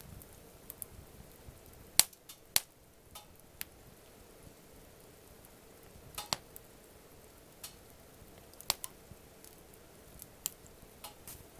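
Wood campfire crackling: irregular sharp pops and snaps over a faint hiss, the loudest two about two seconds in and another near nine seconds.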